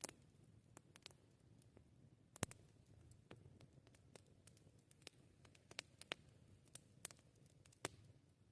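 Wood campfire crackling: scattered sharp pops and snaps at irregular intervals, the loudest about two and a half seconds in, over a faint low rumble.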